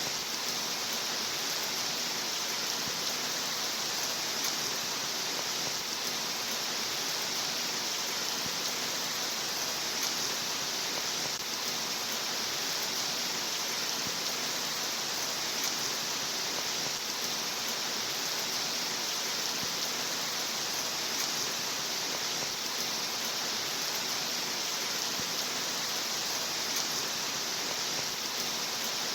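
Steady rain sound: an even hiss of falling rain, brightest in the treble, with no distinct drops or changes.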